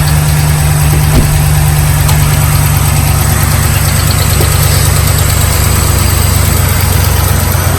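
Dodge Ram's Hemi V8 idling steadily with a fast ticking running through it, the noise of an MDS lifter whose needle bearings have failed.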